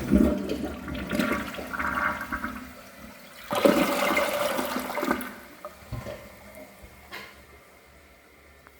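Corona dual flush toilet flushing with the flush overridden: a loud rush of water starts at once, surges again about three and a half seconds in, then drains away and fades by about seven seconds in.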